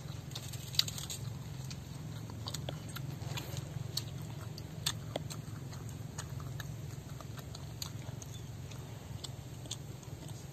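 Crisp bites and chewing of sour starfruit, a string of short crunchy clicks with the sharpest a little under a second in, over a steady low hum.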